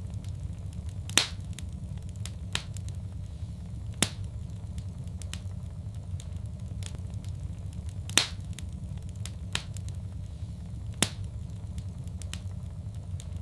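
Wood fire in a fireplace crackling over a steady low rumble, with irregular small snaps and a few loud sharp pops, the strongest about a second in, four seconds in, eight seconds in and eleven seconds in.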